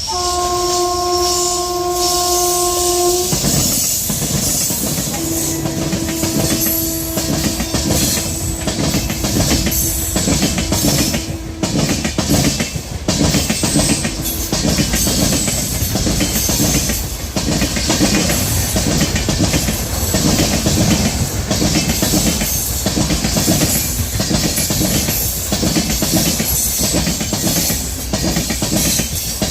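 Locomotive horn sounding one steady note that cuts off about three seconds in, then a train passing close at speed, its wheels clattering over the rail joints, with a fainter horn note held for several seconds early in the passage.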